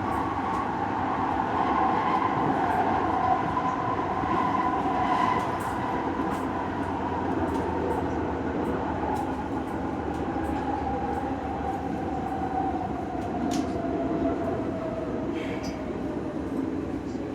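A London Tramlink tram running, heard from inside the passenger car: a steady rumble of the wheels on the rails with a whine that slowly falls in pitch, and a few faint clicks.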